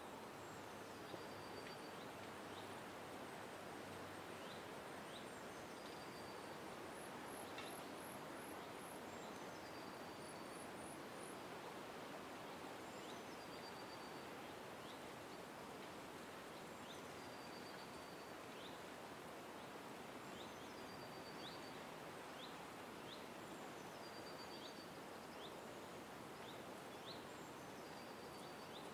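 Faint birdsong over a steady background hiss: a bird repeats a short, high phrase of stepping-down notes every three to four seconds, with a few quick high trills near the start.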